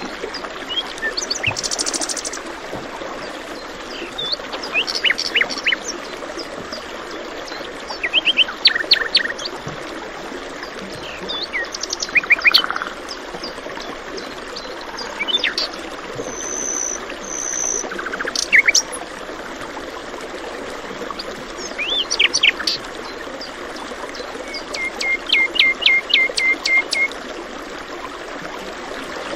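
Many small birds chirping and calling over a steady rush of running water, with quick bursts of sharp repeated notes and a short trill near the end.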